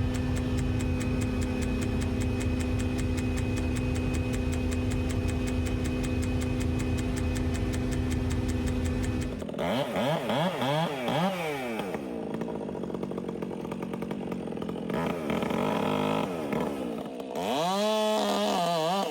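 A steady engine drone for about the first half, then a chainsaw revving up and down again and again as it cuts into the wood.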